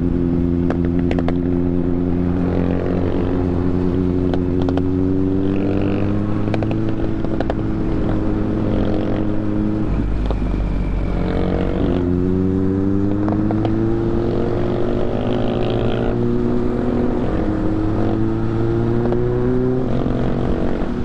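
Motorcycle engine running under load while riding, its pitch climbing slowly as the bike gathers speed. It shifts up about halfway through and again a few seconds before the end.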